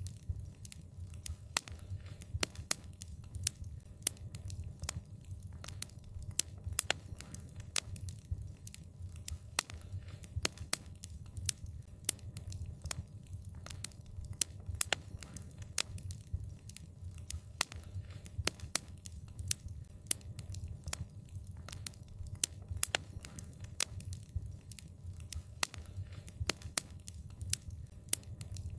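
Wood fire crackling, with many sharp irregular pops and snaps over a low steady rumble of burning.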